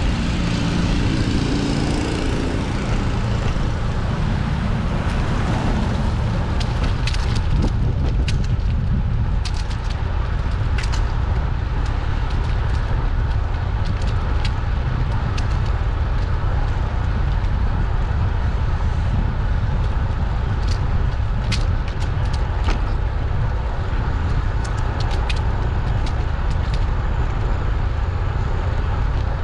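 Wind buffeting the microphone of a camera on a moving bicycle: a steady low rumble throughout. A passing vehicle fades away over the first few seconds, and scattered sharp clicks come from about seven seconds on.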